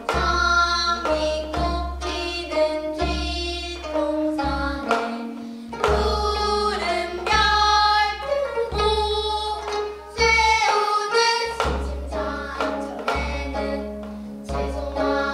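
Gayageum byeongchang: young performers singing while plucking gayageum, the Korean long zither, with deep bass notes underneath.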